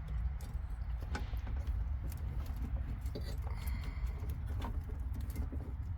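Light clicks and small rattles of automotive wires being handled and twisted together by hand under a car's dashboard, over a steady low hum.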